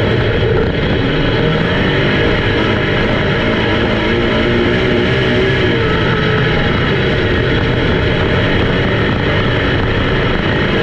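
Race car engines running at speed, loud and steady with a wavering pitch, with rock music mixed in.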